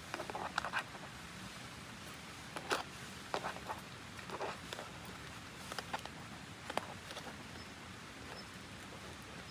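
Scattered light clicks, taps and rustles of things being handled by hand, a dozen or so short sounds at uneven intervals, over a steady background hiss of running water.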